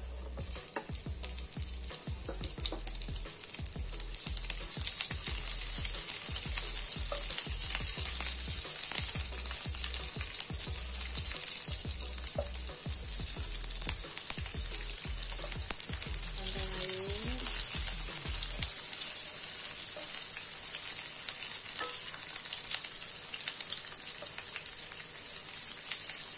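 Sliced onion and garlic sizzling in hot oil in a non-stick frying pan, stirred with a spatula. The sizzle gets louder about four seconds in.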